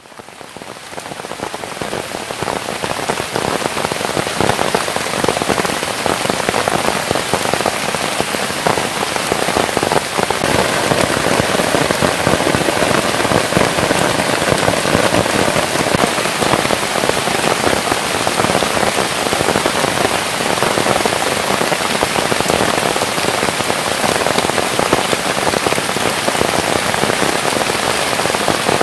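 Steady rain pattering on a surface, a dense even hiss of many small drops that fades in over the first couple of seconds and then holds steady.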